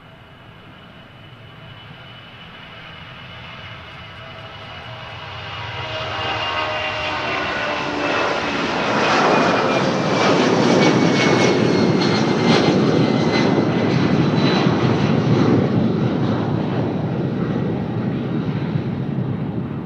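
Jet airliner passing close by: its engine noise builds steadily to a loud rush about halfway through, with a whine that slides slowly down in pitch as it goes past, then begins to fade.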